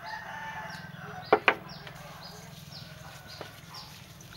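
Birds chirping in short falling notes, about two a second, over a steady low hum. Two sharp knocks come close together about a second and a half in.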